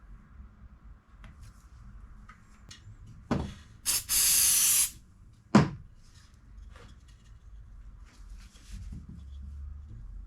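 A knock, then a short spray-like hiss lasting under a second, then a sharp knock.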